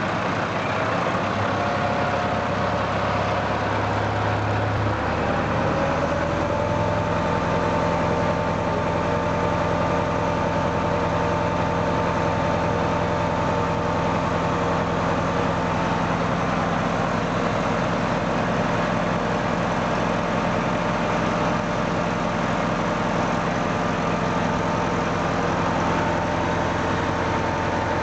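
Tractor engine running steadily. About five seconds in its note shifts and a higher steady whine joins it.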